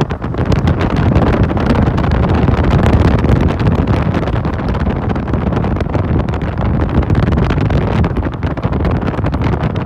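Loud wind buffeting the microphone of a passenger riding a moving motorcycle taxi, with the motorcycle's running and road noise underneath.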